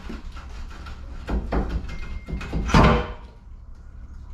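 Heavy metal parts knocking and clanking during skid steer repair work: a few sharp knocks, the loudest and heaviest near three seconds in, with a brief metallic ring, over a steady low hum.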